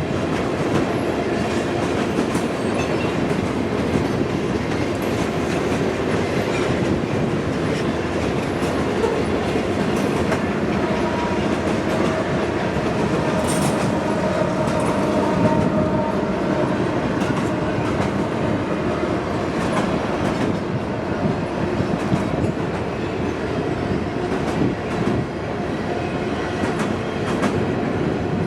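Freight train cars rolling past at speed: a steady rumble with the clickety-clack of wheels over rail joints, and a faint wheel squeal in the middle.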